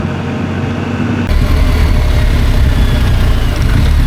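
BMW R1250GS boxer-twin engine running as the motorcycle is ridden, with wind rushing past. About a second in, the sound abruptly turns louder and heavier, with a deep rumble and more wind hiss.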